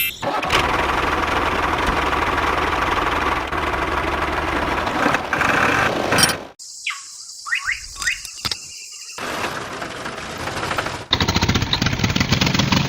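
A small motor-driven machine running with a rattling din, in several short clips that start and stop abruptly, with a few brief squeaks in the middle.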